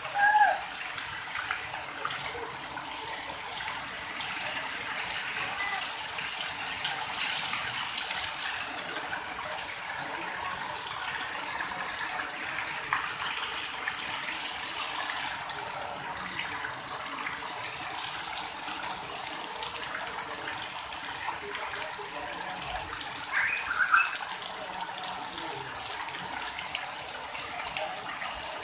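Heavy rain falling steadily on pavement and rooftops, with runoff pouring from the roof edges. A short high voice cuts in briefly near the start and again about 23 seconds in.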